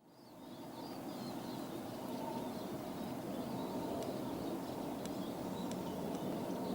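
Distant Airbus A320-214 jet engines, a low rumble slowly growing louder as the airliner approaches, with birds chirping faintly.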